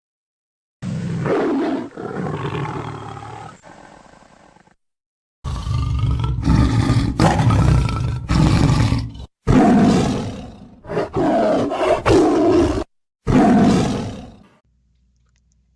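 Lion roaring: one long roar starting about a second in, then a run of shorter roars separated by brief breaks.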